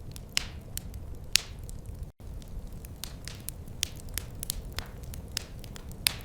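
Wood fire crackling: irregular sharp pops and snaps over a low, steady rumble, with a momentary cut-out about two seconds in.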